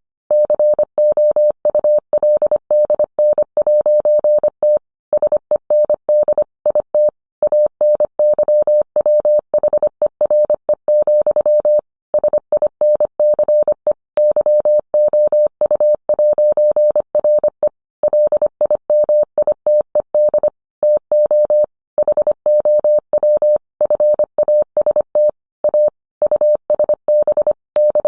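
Morse code sent as a single steady tone of about 600 Hz, keyed rapidly in short and long elements, with brief longer pauses between groups.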